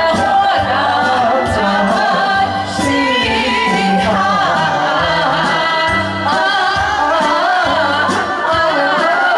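A voice singing a melody over instrumental music with a steady, repeating bass line.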